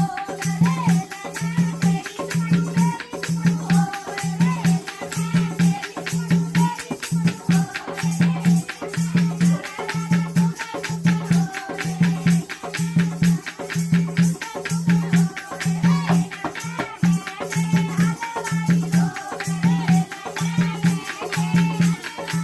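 Jakdi folk music: a deep drum beat pulsing about once a second under dense, rapid rattling percussion, with a wavering melody line above.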